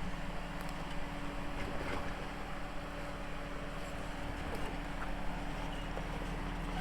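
Holden Rodeo ute's engine running with a steady, even hum.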